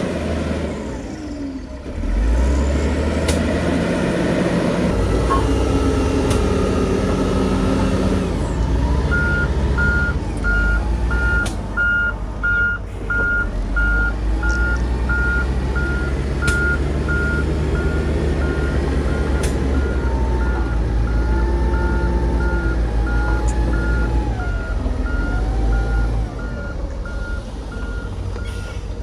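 Heavy diesel construction machinery running, with a reversing alarm beeping steadily from about a third of the way in, about three beeps every two seconds.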